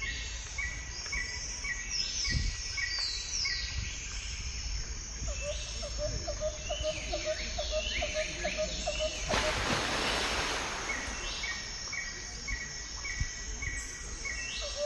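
Songbirds calling and singing: a short chirp repeated about twice a second, higher falling whistled notes, and a fast run of lower pulsing notes for a few seconds in the middle. A brief rush of noise comes about two-thirds of the way through.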